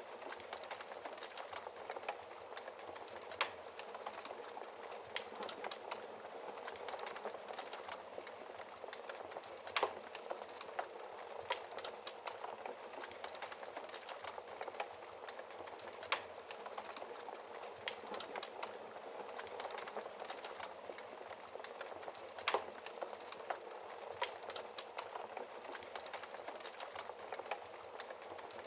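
Wood fire burning in a fireplace: a steady hiss and flutter of flames with constant small crackles and a few louder pops from the burning logs.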